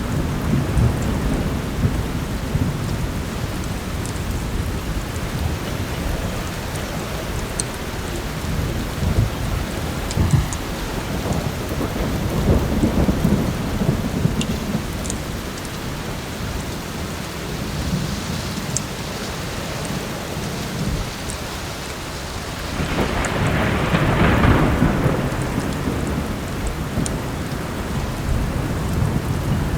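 Heavy rain falling steadily under a continuous low rumble of thunder, with a louder roll swelling up about three-quarters of the way through. Faint scattered crackles from a wood fire tick over the rain.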